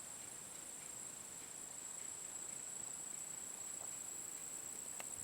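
Steady high-pitched insect song, a continuous trill, with a single faint click near the end.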